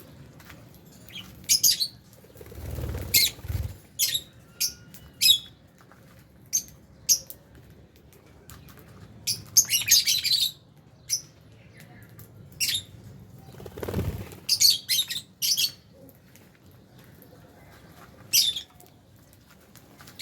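Aviary lovebirds giving short, sharp, shrill chirps in irregular clusters. Wings flap twice, about three seconds in and again about fourteen seconds in.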